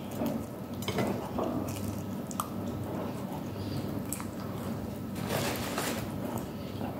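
Biting into and chewing a seeded bagel: wet, squishy mouth sounds with irregular small crunches.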